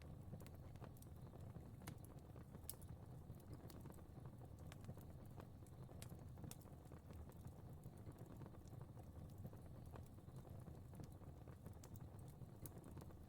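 Fire crackling faintly: a soft low rumble with irregular small pops and snaps.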